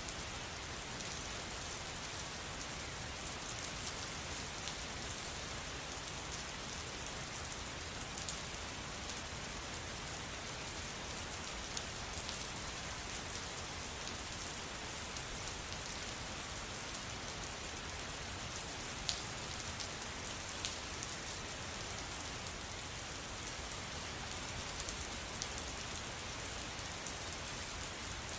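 Steady rain falling, an even hiss with individual drops ticking sharply here and there, a few louder drops standing out.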